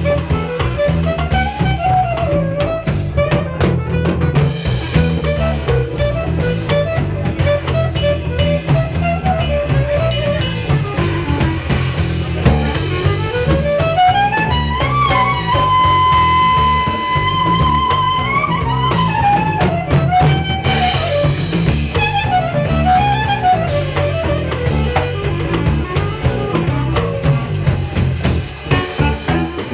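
Instrumental trio music with a drum kit and a steady low bass under a lead melody line. About halfway through, the melody climbs and holds one long high note, then falls back into short wavering phrases.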